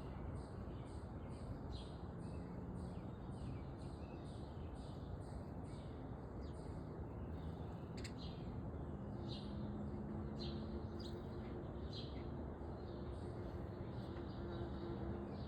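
Small backyard songbirds calling: a rapid run of short, high, falling chirps, about three a second, gives way about six seconds in to scattered single chirps, over a steady low background rumble.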